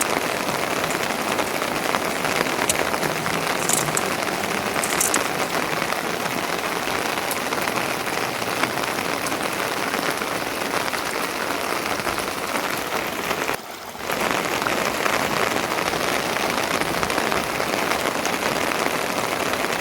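Rain falling steadily, an even dense hiss with faint scattered drop ticks, dipping briefly in level about three-quarters of the way through.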